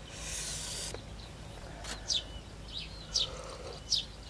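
A bird calling with short chirps that fall in pitch, three or four times, over a steady low background.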